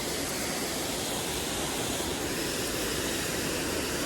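Steady rushing of water from a small creek waterfall.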